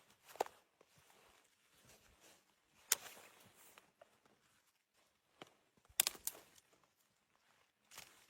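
A few short, sharp knocks and clicks, one about half a second in, one near three seconds, a quick pair around six seconds and one near the end, with faint rustling and handling noise between them.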